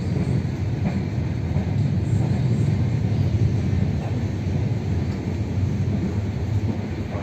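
Passenger train running at speed, heard from inside the carriage: a steady low rumble that swells a little in the middle and eases off near the end.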